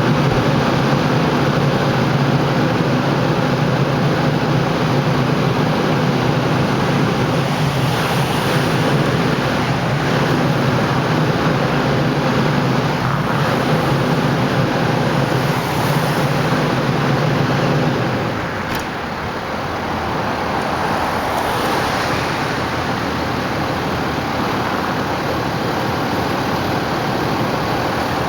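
Road traffic noise with a steady engine idling close by; the engine hum stops about two-thirds of the way through, leaving the traffic.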